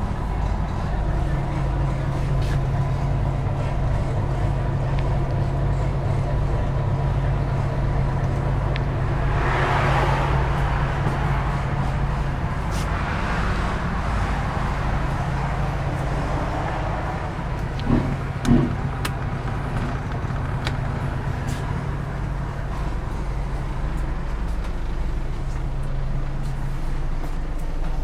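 A bus engine running steadily with a low hum, with a noisy swell about ten seconds in and two short, loud sounds close together a little after halfway.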